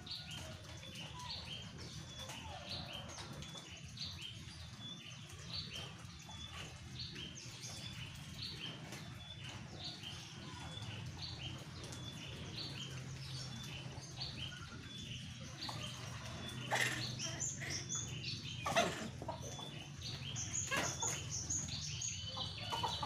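A bird chirping over and over, short high calls roughly once a second. In the last few seconds a few sharp knocks and a burst of chicken wing flapping.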